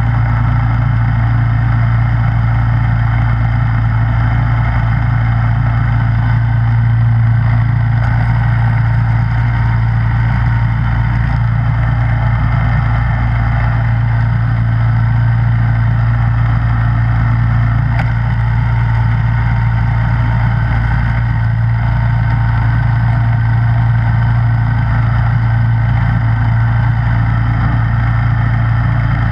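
Snowblower's engine running steadily at an even speed, a loud constant hum with a strong low tone under a rushing noise.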